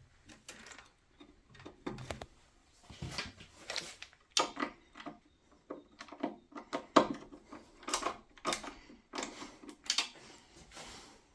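Irregular clicks, knocks and scrapes of tools and parts being handled while working on a boiler.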